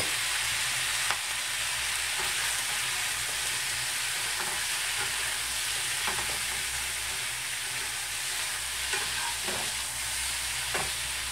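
Tofu, garlic chives and sliced sausage sizzling steadily in a frying pan over a gas flame, with the sauce just added. A few light clicks of chopsticks stirring on the pan, and the pan is tossed near the end.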